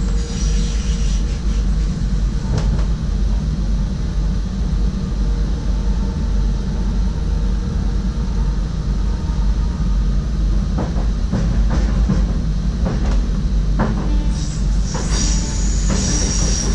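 SGMm Sprinter electric train running along the track: a steady low rumble with sharp clicks of the wheels over rail joints and points, coming more often in the last few seconds.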